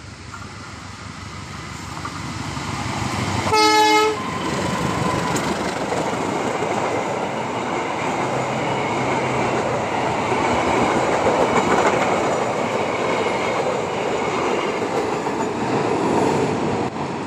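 CC 203 diesel-electric locomotive hauling a passenger train at speed, growing louder as it approaches and giving one short horn blast about three and a half seconds in. Then the steady rumble of the passenger coaches running past close by.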